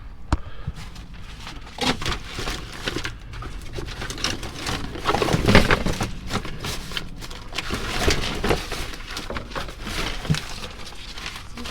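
Trash being shifted and handled inside a dumpster: rustling, knocks and scattered clicks, loudest about five to six seconds in.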